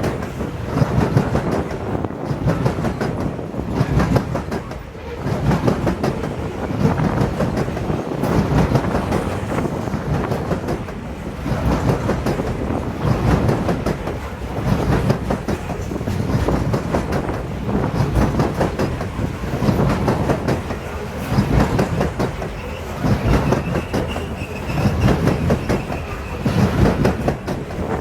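Loaded coal train's hopper cars rolling past, wheels clattering over the rail joints in a steady rhythm that swells about every two seconds. A faint high wheel squeal comes in during the last few seconds.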